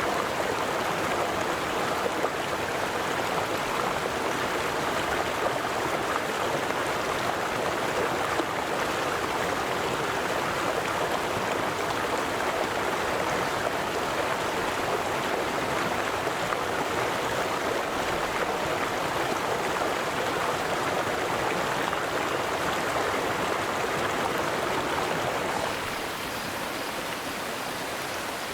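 River water flowing, a steady rushing that drops a little in level near the end.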